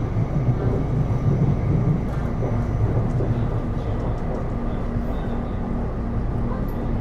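Taipei Metro C301 metro car heard from inside, running steadily: a low rumble of wheels on the rails, with faint steady high tones above it.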